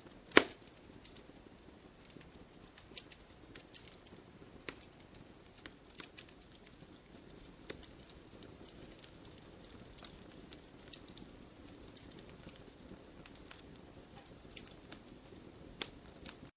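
Campfire crackling: a soft steady hiss of burning wood broken by irregular sharp pops and snaps, the loudest one just after the start.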